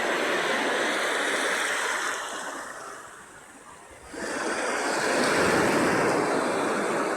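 Sea waves breaking and washing in. The surf fades to a brief lull about three seconds in, then the next wave breaks suddenly about four seconds in.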